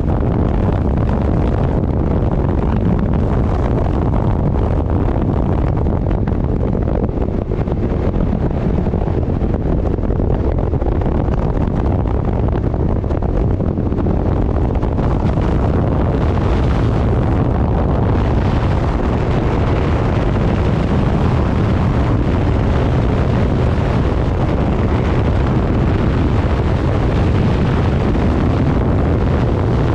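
Steady, loud wind rush buffeting the microphone on a moving motorcycle, with no pauses.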